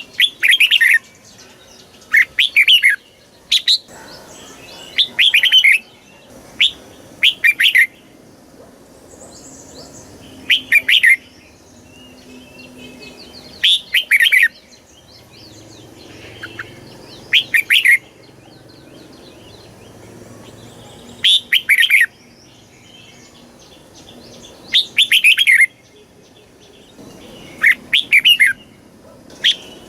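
Red-whiskered bulbul singing: short, loud phrases of quick, liquid whistled notes, repeated every one to three seconds with brief pauses between.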